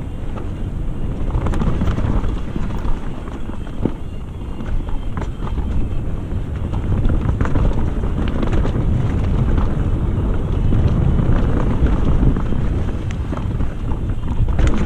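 Wind rushing over the microphone of a mountain bike on a downhill run, with tyre noise on wet mud and leaves and scattered sharp clicks and rattles from the bike.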